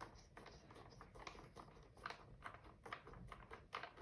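Faint, irregular clicks and light taps of a plastic robot vacuum being handled.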